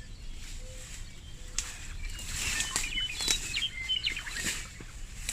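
Birds chirping, with a rapid run of short high chirps in the middle, over faint rustling and light knocks.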